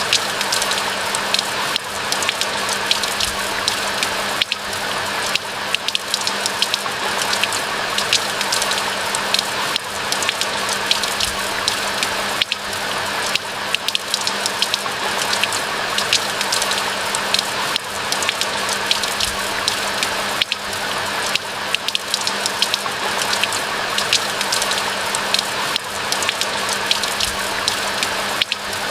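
Steady rain, a dense even hiss full of sharp ticks of individual drops hitting surfaces.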